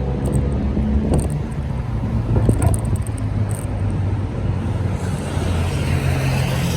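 Wind rumble and road vibration picked up by a camera on a moving bicycle's mount, with a few sharp rattling clicks from the loose mount.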